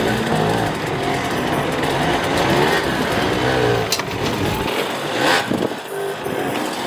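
Dirt-bike engines revving hard, their pitch climbing and dropping over and over as the riders work the throttle. There is a sharp knock about four seconds in.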